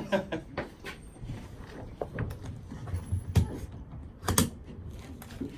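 Clicks and knocks of handling a rifle and its ammunition, with two sharper knocks about three and a half and four and a half seconds in.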